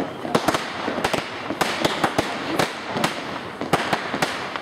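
Fireworks display: a rapid, irregular run of sharp bangs and pops, several a second, as small shells and bursts go off in quick succession.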